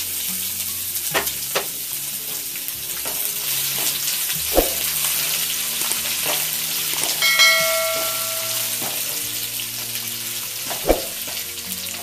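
Chopped ginger sizzling in hot mustard oil with whole spices and dried chillies, stirred with a spatula in a nonstick pan, with a few knocks of the spatula against the pan. A brief metallic ring sounds about seven seconds in.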